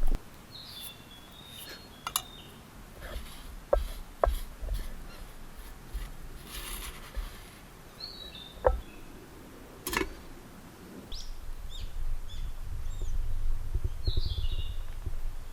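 Songbirds calling in the forest, short chirps repeated several times, with a few sharp clicks or snaps in between. A low rumble builds over the last few seconds.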